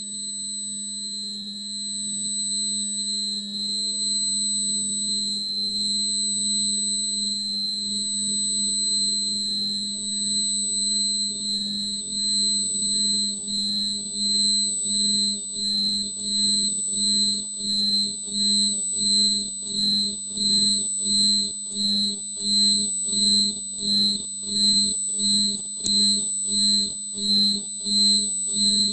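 A very loud synthetic electronic tone: a low hum-like tone with piercing high tones above it, swelling up over the first few seconds and then held steady. As it goes on it takes on an even, regular pulsing.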